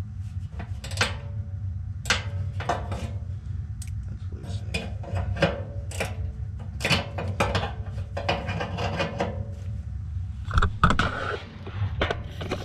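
Metal clicks and clinks of a hand tool working on a blower motor's mounting bracket to tighten it, over a steady low hum, with a brief louder rasp about ten seconds in.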